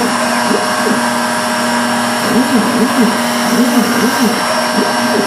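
CNC machine's stepper motors whining as the axes move. The pitch holds steady on longer runs and glides up and down in quick arcs on short back-and-forth moves, over a steady whooshing noise.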